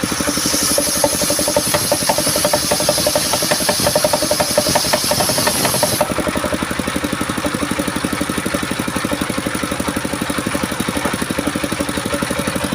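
Engine of a homemade circular saw rig (serkel) running with a steady, fast beat. For about the first six seconds a high hiss rides over it as the blade cuts through coconut wood, then the hiss stops abruptly and the engine runs on alone.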